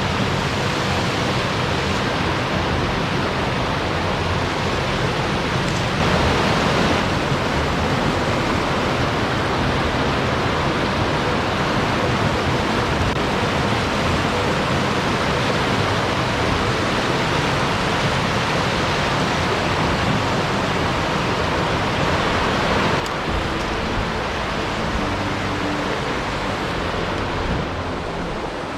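Steady rush of water from a waterfall, a full, even noise that gets a little louder about six seconds in and softer again about 23 seconds in.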